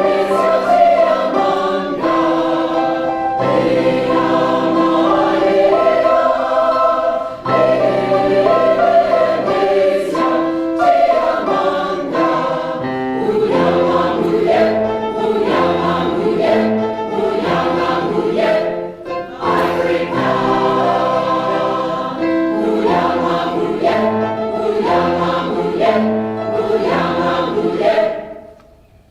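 Community choir singing in several-part harmony; the singing stops about a second before the end.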